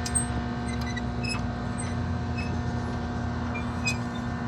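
Horizontal directional drill rig's engine running steadily, with a few light clinks over it.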